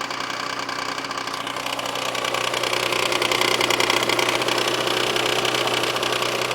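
Mazda MX-3's 1.8-litre V6 idling with a rapid, even ticking/knocking over the engine note. The owner reports the noise comes only at idle and below 2000 rpm and stops once revved above that; its cause is undiagnosed.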